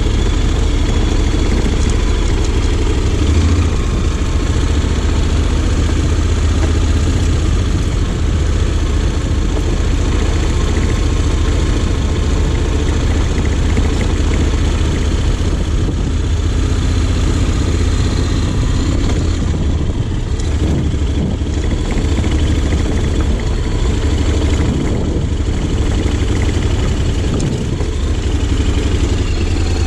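Honda X-ADV 750's parallel-twin engine running steadily at low revs, riding slowly off-road.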